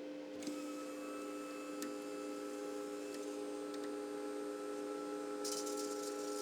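MIG welder's wire-feed motor running steadily with the feed override button held, pushing wire out at full speed (about 11.5 m/min) rather than the speed set on the knob. It starts about half a second in, over a faint steady hum.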